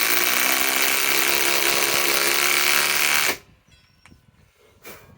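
Ryobi PSBIW25 compact cordless impact wrench hammering a galvanized lag screw into wood that was not pre-drilled, then stopping suddenly a little over three seconds in. A brief faint knock follows near the end.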